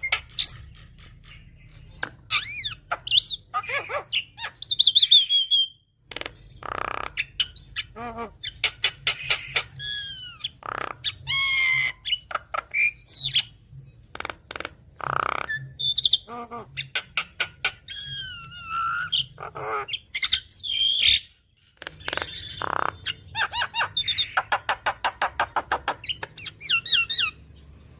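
Javan myna singing vigorously: a varied string of slurred whistles, rising and falling glides, clicks and harsh chattering notes, with a fast rattling run near the end.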